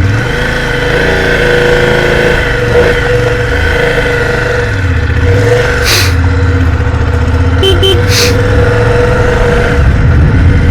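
Motorcycle engine running under way, its note dipping and rising again a couple of times. Two sharp knocks come near the middle.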